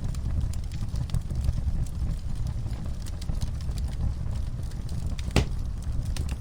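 Wood fire in a fireplace crackling, with many small sharp snaps over a low rumble of the flames and one louder pop about five seconds in.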